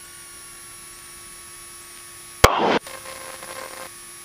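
Cockpit intercom audio: a steady faint hum and hiss with thin steady tones, broken about two and a half seconds in by a short, loud burst of static.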